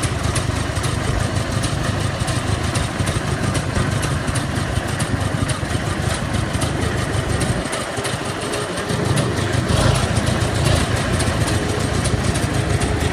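Vehicle engine idling with a steady low rumble. It eases about eight seconds in, then grows louder again near ten seconds.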